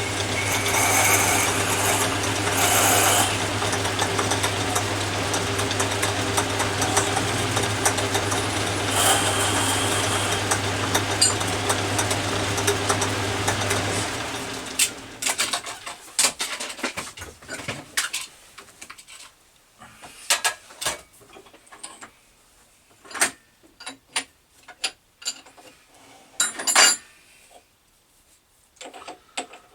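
Atlas 10 metal lathe running with a steady motor hum, then switched off about fourteen seconds in and running down. After that come scattered short metallic clicks and clinks of tools being handled.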